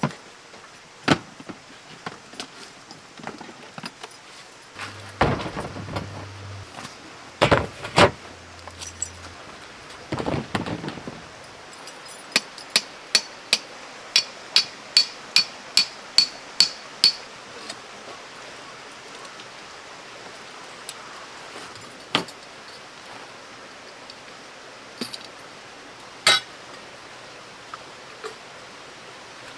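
Metal clinks and knocks: a few separate knocks, then about a dozen evenly spaced ringing taps at two to three a second, then a few single clinks.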